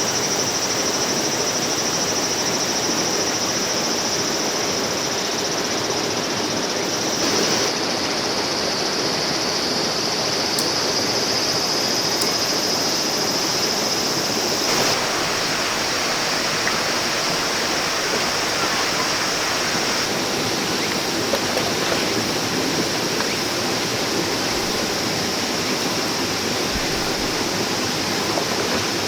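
Shallow stream running over rocks, a steady even rush of water with a steady high-pitched hum above it. The sound shifts abruptly about seven and fifteen seconds in.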